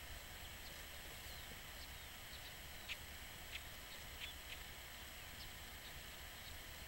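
Small birds giving faint, short, high chirps and calls, with a few sharper ones clustered around the middle, over a steady low background hiss.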